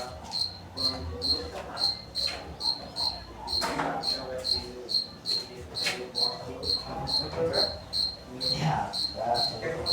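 A cricket chirping steadily, about three to four short high chirps a second, with a few faint knocks and handling sounds underneath.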